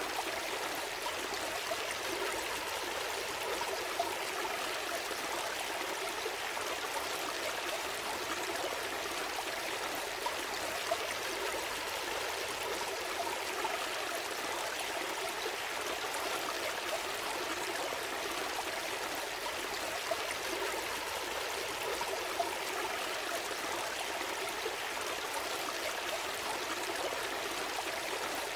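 A small stream flowing steadily over stones, a continuous babbling rush of water with small splashes and trickles.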